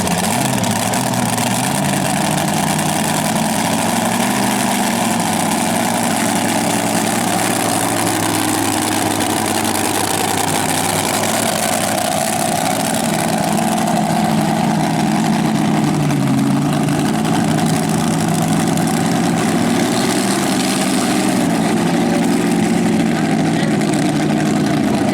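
Engine of a mini rod pulling tractor running steadily, its pitch shifting slightly up and down without a full-power rev.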